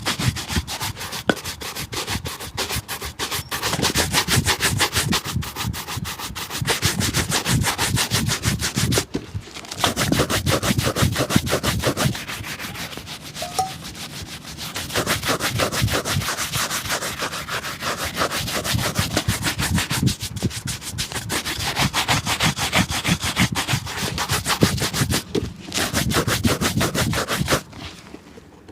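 Fast, rhythmic rubbing strokes on a shoe, many a second, in runs broken by brief pauses.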